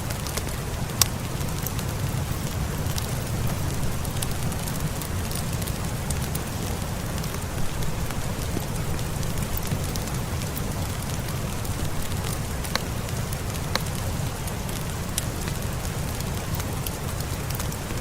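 Steady rain with a low rumble, mixed with a wood fire crackling in sharp scattered pops.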